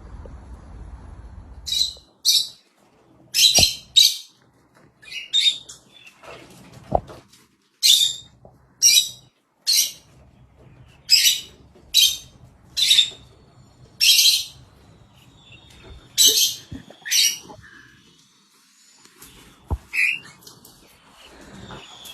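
Pet parrot calling: a string of short, shrill calls, about one a second with short pauses, starting about two seconds in and tailing off near the end.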